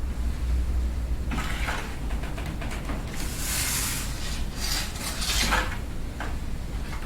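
Wind storm in a garden: a steady low rumble of wind against the microphone. From about a second in until about six seconds, gusts bring bursts of rustling with scattered clicks, loudest in the middle.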